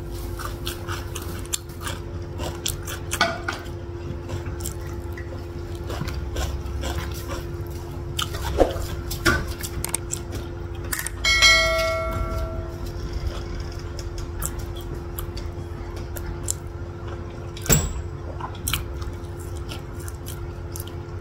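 Close-miked chewing and wet mouth sounds of eating satay, with small clicks as bamboo skewers are handled. About eleven seconds in, a bell-like ding rings out for about a second and a half, the sound effect of a subscribe-button animation.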